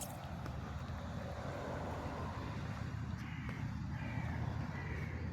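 A crow cawing four times in short harsh calls from about three seconds in, over a steady low rumble. A sharp click sounds right at the start.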